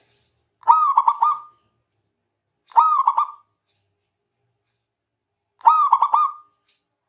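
Zebra dove (perkutut) cooing: three short phrases, each a quick run of a few clipped notes, with pauses of a second or two between them.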